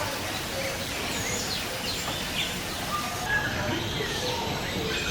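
A mix of birds chirping and calling: many short chirps and quick falling whistles from several birds over a steady background hum.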